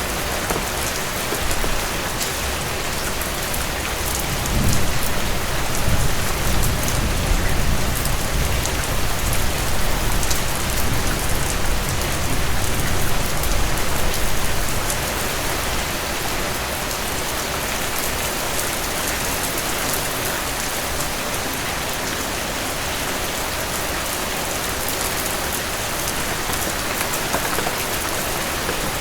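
Heavy rain falling steadily on a cabin roof and porch. A low rumble swells in about four seconds in and fades out about ten seconds later.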